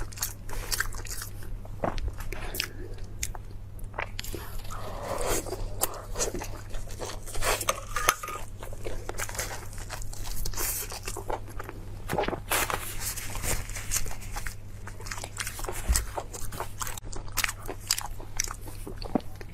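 Close-miked eating: a person biting and chewing food, with many irregular sharp crunches and clicks. A low steady hum sits underneath.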